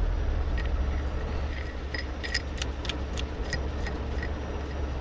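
Steady low engine rumble of a tow truck running, with a string of about a dozen light metallic clinks and jingles over the first four seconds.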